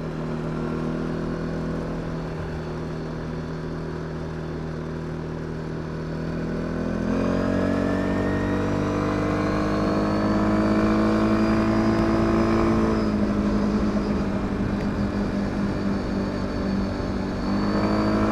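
CFMOTO CFORCE 550 quad bike's single-cylinder engine running under way, recorded from the bike. It holds a steady note, then climbs in pitch about seven seconds in as the quad accelerates. It drops back about thirteen seconds in and rises again near the end, accelerating smoothly after its valve adjustment and service.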